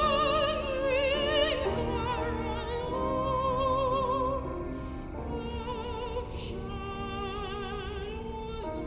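Soprano singing with a wide vibrato over piano accompaniment, in classical art-song style; the voice holds long notes and moves between them.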